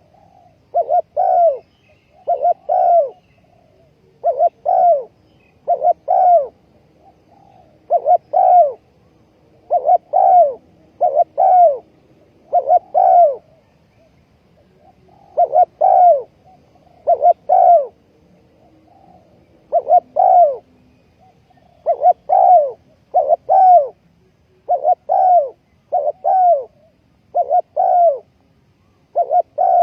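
Spotted dove cooing over and over: short paired notes, each rising then falling, repeated every second or two with brief pauses between phrases.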